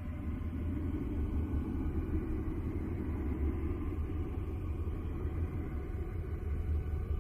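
Deep, steady rumble with a rushing band of noise above it and faint sustained tones higher up, unchanging throughout: a NASA 'space sound', spacecraft-recorded radio and plasma-wave data converted into audio.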